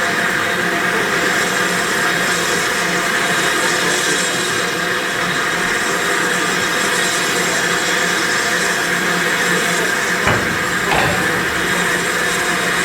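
Steam locomotive hissing steadily with escaping steam, with two short knocks near the end.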